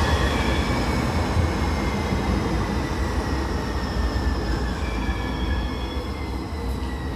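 Single-car Siemens LRV4 light rail vehicle pulling into a subway station platform: a steady low rumble with high whining tones that slowly fall in pitch as it slows down.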